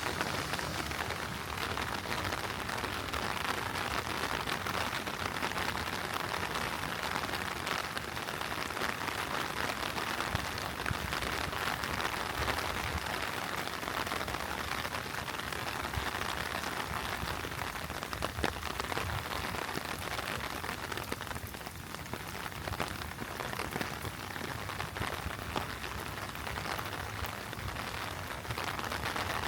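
Heavy rain falling steadily, a dense hiss of drops striking the surface, easing slightly about two-thirds of the way through.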